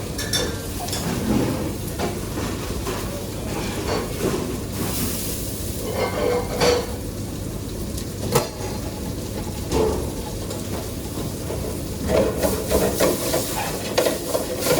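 Cooking in a pan: a steady sizzle, with a utensil now and then knocking and scraping against the pan, more often near the end.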